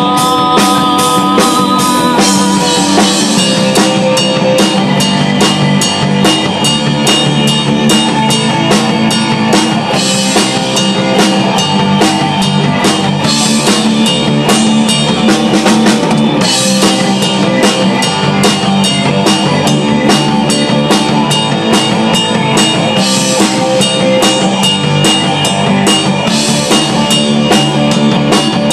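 Instrumental rock music: drum kit playing a steady beat under guitar and bass, with no singing.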